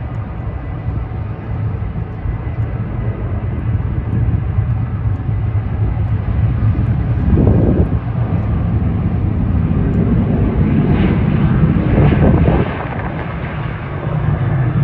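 Jet engines of a Boeing 737 airliner, a steady heavy rumble that grows louder over several seconds, dips briefly near the end, then swells again.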